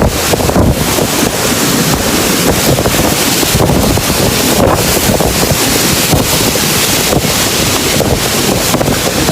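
Strong storm wind rushing and buffeting the microphone in a loud, steady roar of noise that rises and falls slightly with the gusts.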